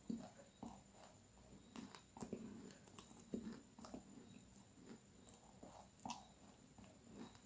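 Faint, close-miked chewing of crunchy food: short, irregular crunches, one or two a second.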